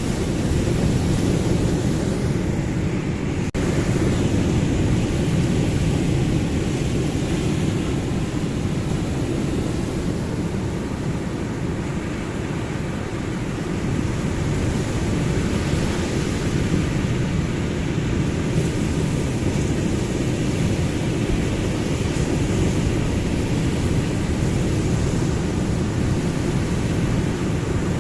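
Ocean surf washing continuously: a steady, low, noisy wash with gentle slow swells in level.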